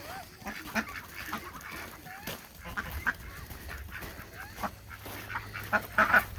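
Domestic geese and ducks calling as a flock, with scattered short honks and calls.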